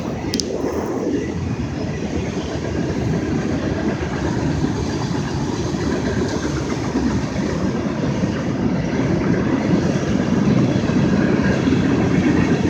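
Railroad cars of a passing train rolling by steadily on the rails.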